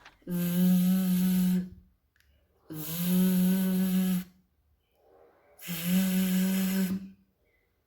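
A woman sustaining the voiced consonant sound of the letter V, a buzzing 'vvvv', three times. Each is held steady for about a second and a half, with short pauses between.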